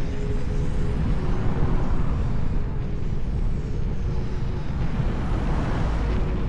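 Wind rushing and buffeting over the camera microphone while riding a Kugo Kirin U2 (KingSong 16S) electric unicycle, with a faint steady hum from its hub motor. The rushing swells twice, about two seconds in and near the end.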